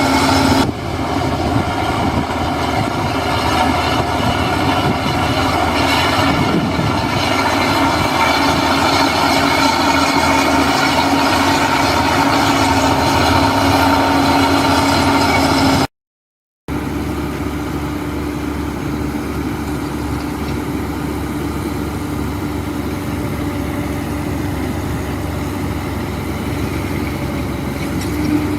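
Heavy diesel construction machinery engine running steadily. It breaks off for a split second about two-thirds of the way through, then carries on a little quieter.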